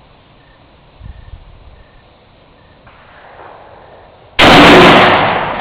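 A single rifle shot about four seconds in, very loud, with a tail that fades over more than a second.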